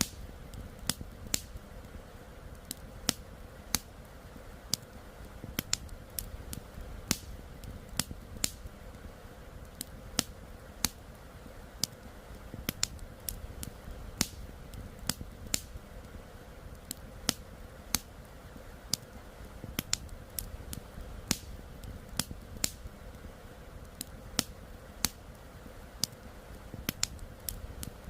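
Wood fire crackling, with sharp, irregular pops about one or two a second over a soft, steady background rush.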